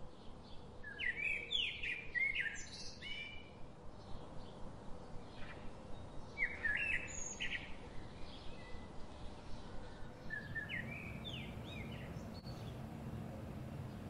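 Birds chirping in three short bursts of quick, sweeping high notes a few seconds apart, over a faint steady hiss.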